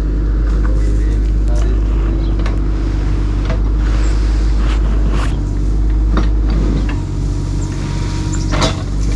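Heavy-equipment engine running steadily, a low rumble with a steady hum, with scattered clicks and clanks. The rumble eases a little about seven seconds in.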